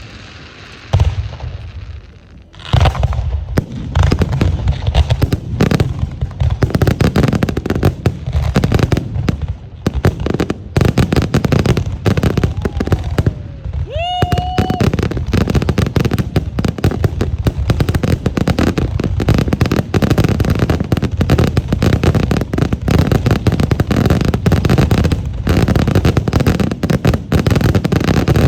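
Aerial fireworks going off in a dense, continuous barrage of rapid bangs and crackles. There are a few separate bangs first, and a brief rising whistle about halfway through.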